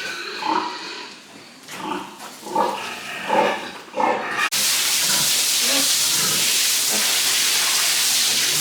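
Pigs calling, about five short separate calls in the first half. About halfway through, a loud steady hiss starts suddenly and covers the rest.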